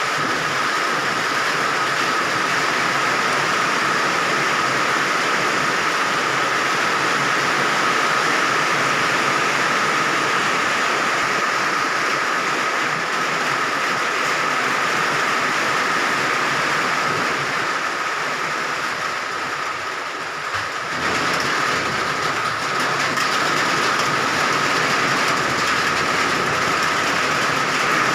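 Heavy rain falling, a steady rush of noise with a thin steady high tone running through it; the rush dips briefly about twenty seconds in.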